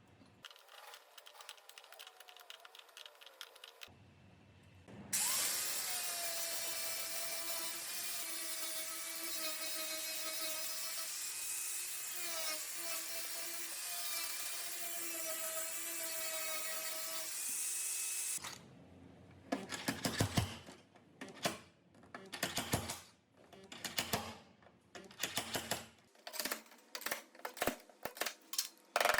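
Handheld power tool: faint rapid ticking at first, then about five seconds in the motor runs with a steady whine for some thirteen seconds and stops. After that come many short, irregular bursts of working noise.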